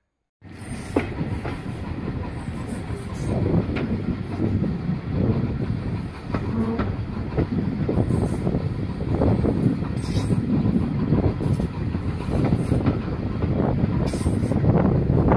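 Heritage railway passenger carriage running along the line, heard from the carriage: a steady rumble of wheels on rail with irregular clicks of the wheels over rail joints. It cuts in suddenly about half a second in.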